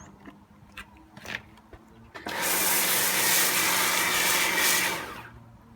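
Pressure washer running and spraying for about three seconds: it starts suddenly just after two seconds in, holds steady with a low motor hum under the hiss of the jet, then stops and fades about five seconds in. A few faint clicks come before it.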